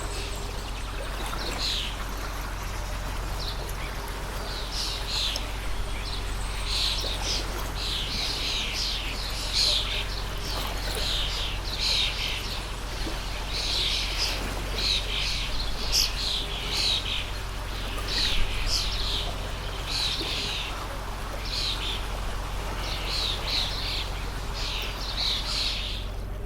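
Small birds chirping in quick, repeated runs of short calls over the steady rush of a flowing water stream.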